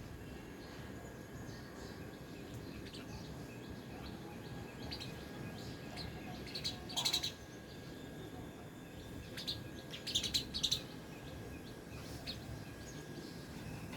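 Sparrows chirping: scattered short chirps, with two louder bursts of chirping about seven and ten seconds in, over steady low background noise.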